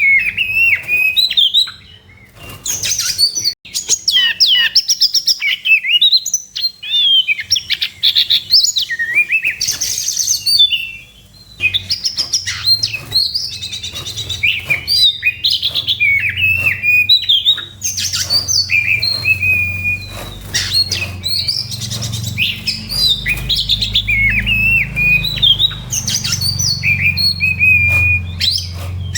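Oriental magpie-robin (kacer) singing a fast, varied song of whistles, trills and harsh notes in its aggressive fighting-mode song, with short breaks about two and eleven seconds in. A low hum sits underneath from about twelve seconds in.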